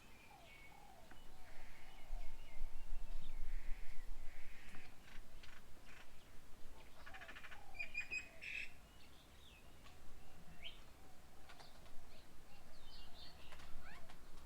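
Several birds calling: a mix of short chirps, whistled notes and harsh, raspy squawks, with the loudest squawks in the first few seconds and again about halfway through.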